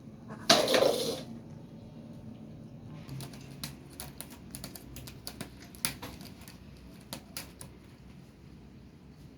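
A sudden loud clatter about half a second in, lasting under a second, then a run of light, irregular clicks and taps of small hard objects.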